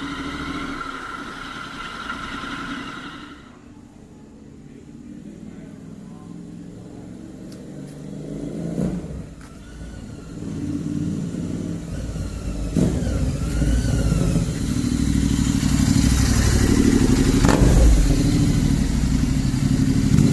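Royal Enfield Interceptor 650's parallel-twin engine running through an SS Moto full-system exhaust. It is low and quiet at first, then revs louder from about twelve seconds in.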